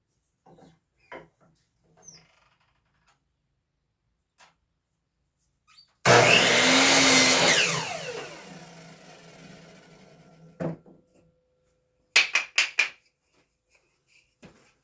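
Power miter saw making one cut through a wooden frame piece about six seconds in. The motor starts abruptly and runs loud for about a second and a half, then whines down with falling pitch as the blade coasts to a stop. A few light knocks of handling the wood come before the cut, and a knock and a quick run of four sharp clacks come near the end.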